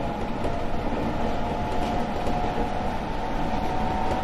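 JR Shikoku 7000 series electric railcar running along the track, heard from inside the cab: a steady rumble of wheels on rail with a faint steady whine.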